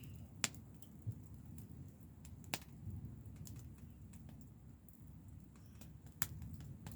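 Wood campfire burning: a low, steady rumble broken by sharp, irregular crackles and pops.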